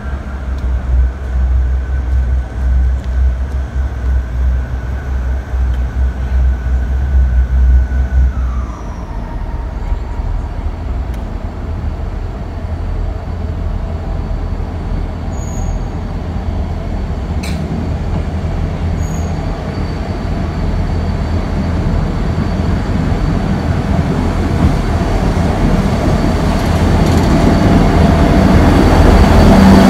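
South Western Railway diesel multiple unit drawing into the platform. Its engine drone carries a steady high note that drops in pitch about a third of the way through, and the rumble grows steadily louder as the train comes alongside near the end.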